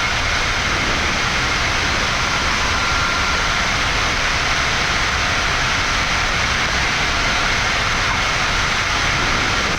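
Steady cockpit noise of a Boeing 787-9 in its climb after takeoff: an even rush of airflow and engine noise heard from inside the flight deck, with a faint high whine running through it.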